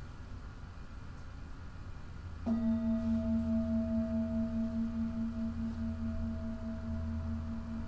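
Singing bowl struck once about two and a half seconds in, then ringing on with several overtones and a slow pulsing waver, over a low steady hum.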